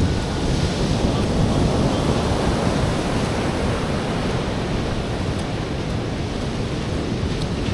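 Ocean surf washing on a beach, a steady rush of waves that swells slightly in the first few seconds, with wind rumbling on the microphone.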